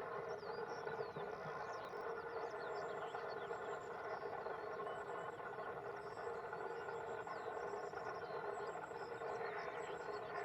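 Many small songbirds chirping and trilling in a morning chorus, over a steady droning hum.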